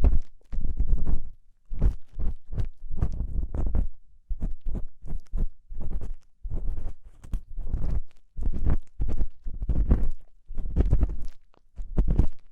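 Ear-cleaning tool scraping and rubbing inside the ear of a binaural microphone, heard as close, rumbling strokes at about one a second in an uneven rhythm.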